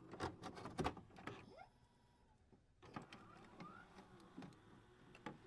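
Faint scattered clicks and knocks, with a short near-silent stretch in the middle.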